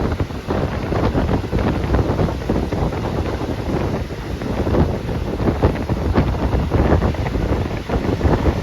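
Wind buffeting the phone's microphone: a loud, constant rumbling rush with crackling gusts.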